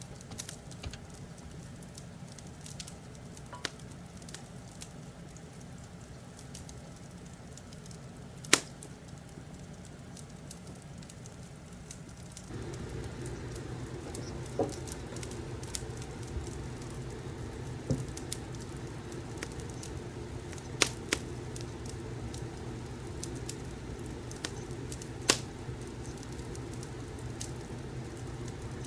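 Fireplace crackling, with scattered sharp pops over a steady low hum. About twelve seconds in, the low hum steps up and stays louder.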